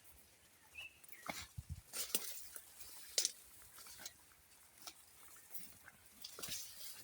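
Footsteps on a wet, muddy path: irregular steps and scuffs, with a few heavier thuds about a second and a half in.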